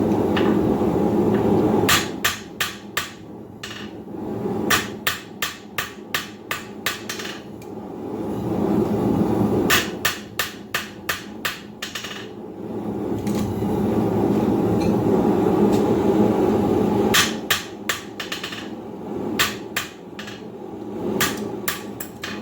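Blacksmith's hand hammer striking a hot steel bar on the anvil, in several runs of quick blows, about three or four a second, with pauses between them filled by a steady rushing noise.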